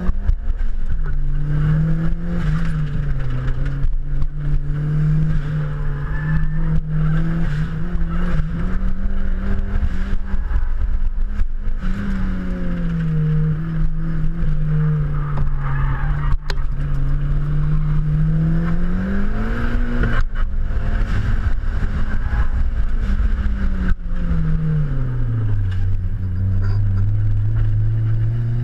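Boosted Mazda Miata's four-cylinder engine heard from inside the cabin under hard driving through an autocross course, its pitch repeatedly climbing and falling with the throttle over steady road and wind noise. Near the end the engine note drops low for a few seconds, then climbs again.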